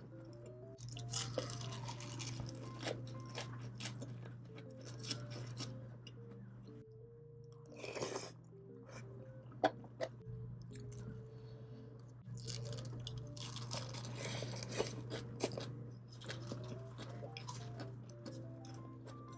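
A person chewing and crunching food close to the microphone, in two long spells of busy mouth clicks with a short noisy burst between them, over light background music with a simple stepping melody.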